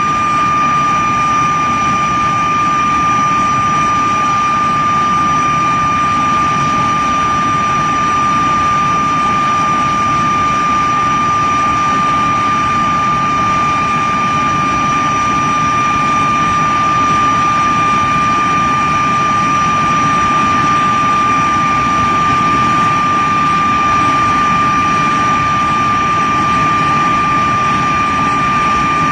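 de Havilland Vampire's Goblin turbojet running steadily on a ground run: a loud, high whine held at one pitch over a broad, even roar.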